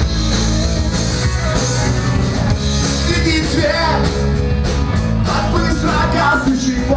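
Punk rock band playing live, with guitars and a drum kit. A singer's voice comes in about three seconds in.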